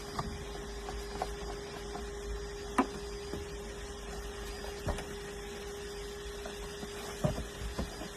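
A steady machine hum held at one pitch, with a few light clicks and knocks. The sharpest knock comes about three seconds in.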